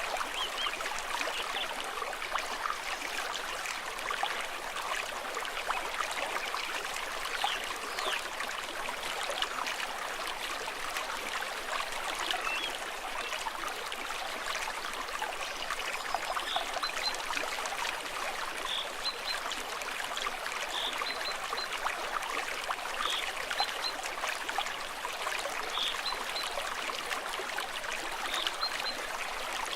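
A stream of running water trickling steadily, a constant rush flecked with fine splashes.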